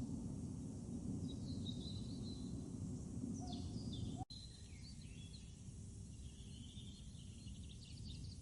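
Small birds chirping in short twittering calls over a steady low background noise, with a sudden brief gap about four seconds in.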